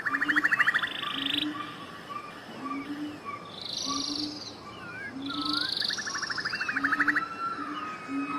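Several wild birds singing: rapid trills, whistled up-and-down glides and buzzy chirps. Under them runs a low call repeated a little more than once a second.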